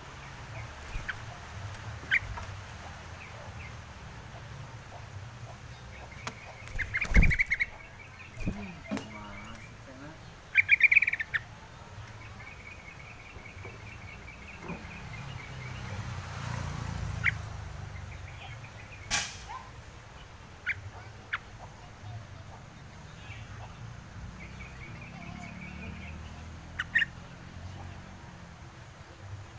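A bird, which the uploader calls a wild crucukan, calling in short high trills, repeated several times. Some sharp clicks or knocks are louder than the calls.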